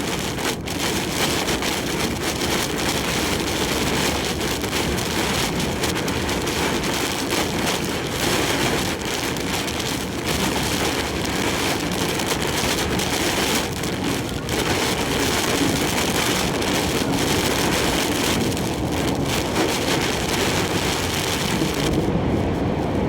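Heavy typhoon rain and wind beating on a large truck as it drives, a dense steady hiss of rain with the vehicle's running noise beneath it. The high rain hiss drops away near the end.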